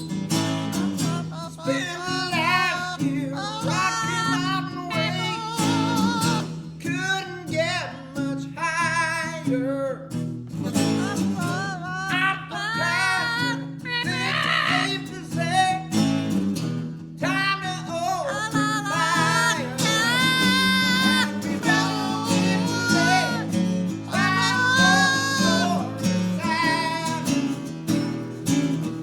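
Acoustic guitar strumming, with a parrot singing along above it in a high, warbling voice.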